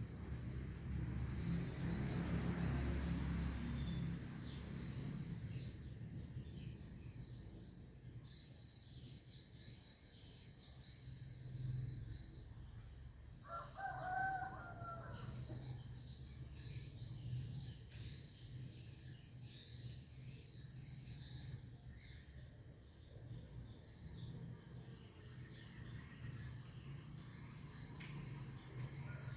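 A rooster crows once, about two seconds long, midway through, over continual high chirping of small birds or insects. A low rumble fills the first few seconds.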